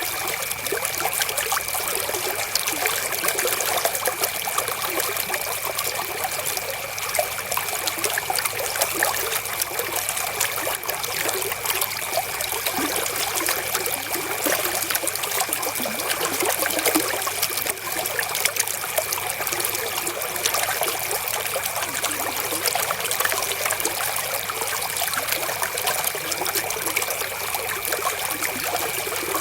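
River water flowing and babbling steadily over stones, a dense, even trickling without pause.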